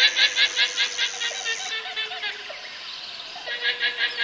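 Guanaco calling: a rapid, high, laugh-like trill of quick even pulses, about six a second, in a bout of about two seconds, then a shorter second bout near the end.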